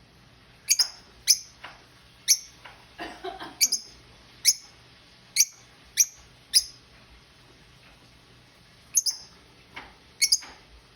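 A pet bird giving short, sharp chirps, about a dozen of them at irregular intervals, with a pause of about two seconds before a last quick cluster.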